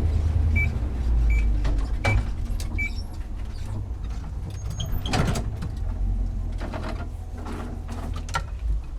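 Delivery truck's engine and cabin rumble, with a short electronic beep repeating about every three-quarters of a second for the first three seconds and scattered knocks. The rumble drops away near the end.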